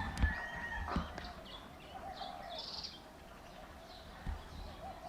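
Backyard birds chirping and calling: short high chirps come and go, with a brief steady whistled note in the first second and a few lower warbling calls.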